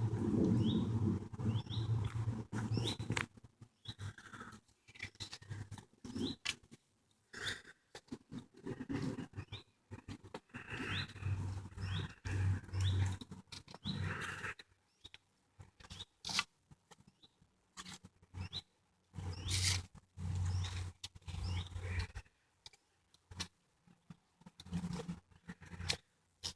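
Footsteps crunching irregularly on a woodland path, with short bursts of low rumble on the microphone. A bird chirps a few times in the first few seconds.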